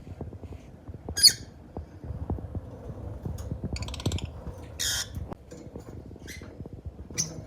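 Rosy-faced lovebirds giving short, harsh squawks, about five of them, the loudest about a second in, with scattered faint clicks and rustling beneath.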